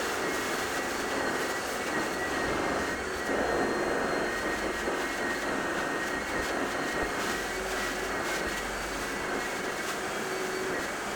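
Carpet-cleaning machine's vacuum motor running steadily, a constant whine over a rushing hiss.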